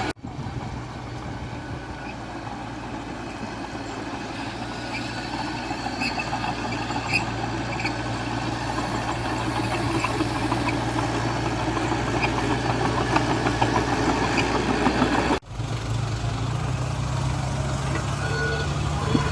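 Diesel engine of a small Komatsu D20A crawler bulldozer running steadily at work, with a few light metallic clicks. About fifteen seconds in, the sound drops out briefly and comes back with the engine note a little higher.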